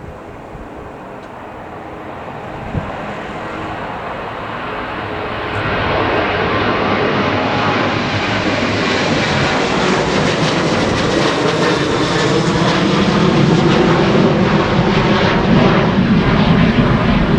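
Airliner's engines passing close by, growing steadily louder for about six seconds and then staying loud, with a faint sliding pitch near the end.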